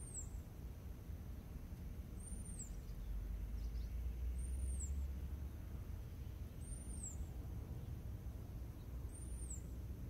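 A bird repeating a single high, thin, arched note about every two seconds, five times, over a low steady rumble that grows louder around the middle.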